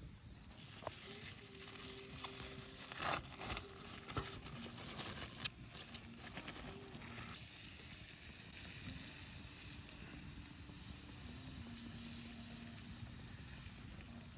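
Food sizzling as it fries in a pan, with a few sharp pops in the first half.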